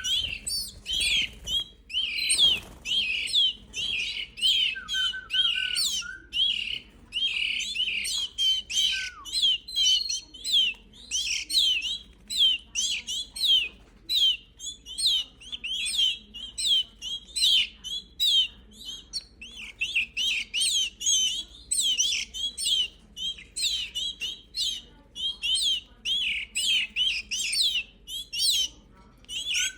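Five-week-old canary chicks chirping, a dense run of short high calls several times a second, the begging calls of young birds at feeding time.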